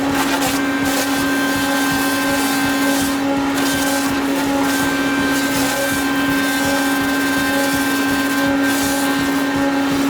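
Pole and post peeler's motor running at a steady speed, a constant unchanging drone with noise from the machine working over it.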